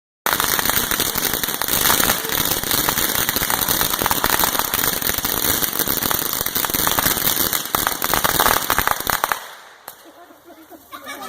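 Consumer firework crackling: a dense, rapid stream of small pops for about nine seconds, then dying away quickly.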